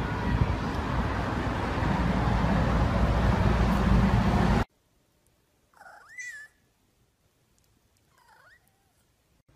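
A steady loud noisy rumble and hiss that cuts off suddenly. After a moment a cat meows once, the call rising then falling in pitch, and about two seconds later gives a shorter, fainter meow.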